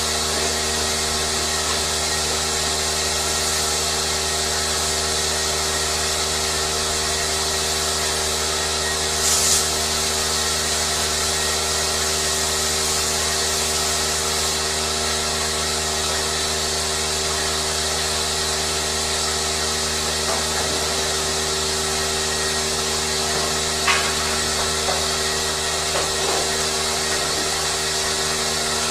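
A machine running steadily, a constant hum with a hiss over it, with a short sharper noise about nine seconds in and a faint click later on.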